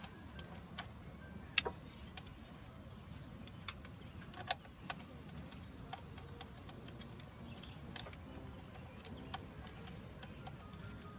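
Scattered light clicks and a few sharper metallic clinks of a socket and bolts being handled while the sound tube is unbolted, over a low steady rumble.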